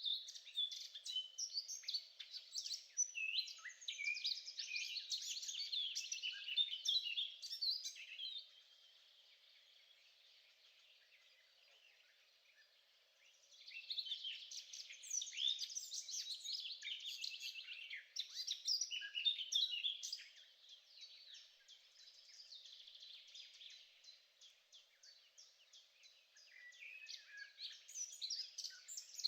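Songbird song: long runs of rapid, high twittering and trilling chirps, breaking off for about five seconds near the middle, then resuming and turning more broken toward the end.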